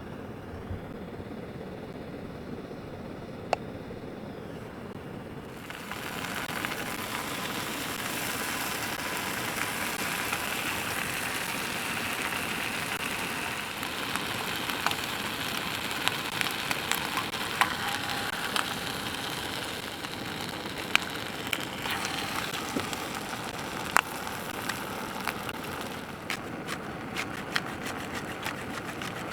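Fire crackling with scattered sharp pops, joined about six seconds in by a steady hiss.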